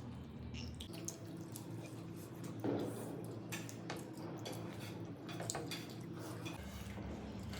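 Wet eating sounds: many short smacking clicks and squelches as chicken curry and rice is chewed and handled, with one louder knock a little under three seconds in.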